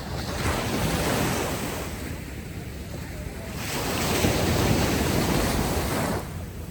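Ocean waves washing ashore on a beach, two surges of surf one after the other, the second falling away suddenly near the end, over a steady background wash.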